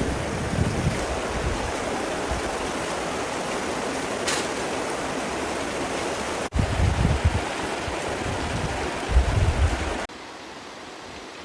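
Steady rushing water with wind buffeting the microphone in low gusts. Near the end it cuts to a quieter, even hiss.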